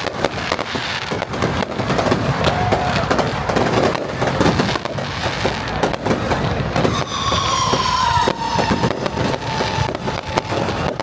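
Fireworks going off in quick succession, a dense, continuous crackling and popping of many small bursts.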